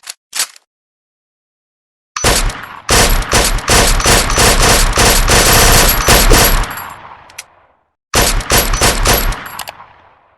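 Suppressed SIG 516 AR-15-style rifle firing in rapid strings: a long run of closely spaced shots about two seconds in that fades out, then a shorter run near the end. Two short clicks come just before, at the very start.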